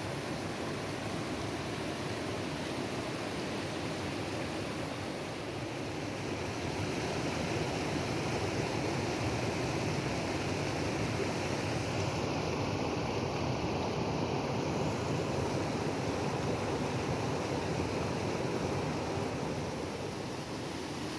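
Waterfall: steady rushing water, growing a little louder about a third of the way in.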